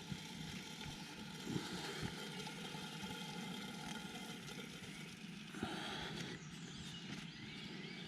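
Small wood fire burning in a Solo Stove camp stove, with scattered crackles and pops over steady outdoor background noise. A short louder rushing sound comes a little past halfway.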